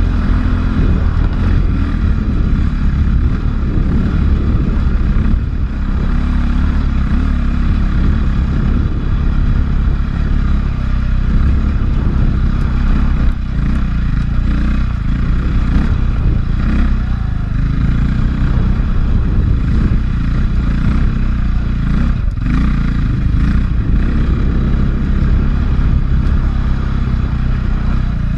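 A 450cc four-stroke enduro dirt bike engine running continuously under load on a trail climb, heard from a helmet-mounted camera, with a few brief knocks along the way.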